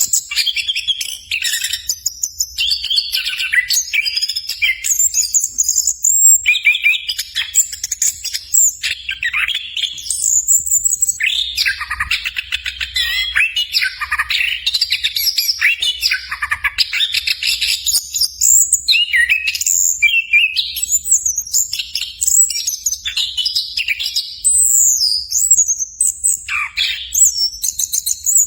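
Chestnut-capped thrush (anis kembang) singing continuously: a varied, rapid stream of whistled phrases, fast trills and chattering notes with only brief pauses between phrases.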